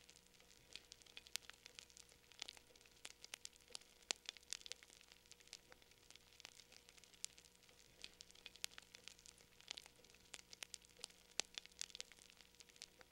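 Wood fire burning in a fireplace, crackling quietly with irregular sharp pops, several a second, the louder ones standing out now and then.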